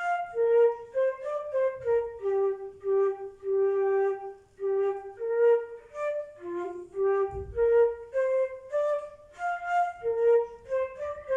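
Background music: a slow solo flute melody of held notes, with a brief low thump about seven seconds in.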